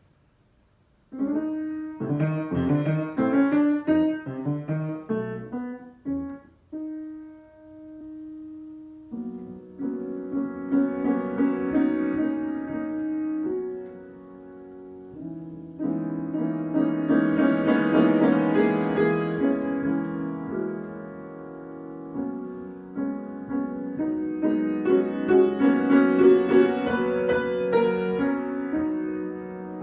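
Piano being improvised. After a short silence comes a quick run of notes, then a single held note, then fuller sustained chords that swell twice and are loudest near the end.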